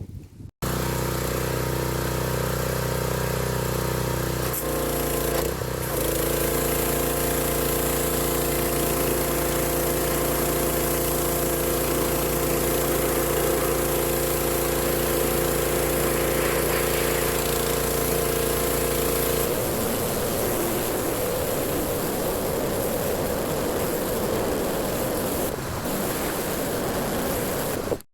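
Husqvarna pressure washer running steadily while spraying, its tone shifting around five seconds in; about twenty seconds in the machine cuts out, leaving only a steady hiss of spraying water.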